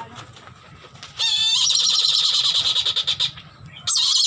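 Captive falcon-like bird of prey giving loud, shrill, rapid chattering calls. The first starts about a second in and lasts about two seconds, and a second call begins near the end.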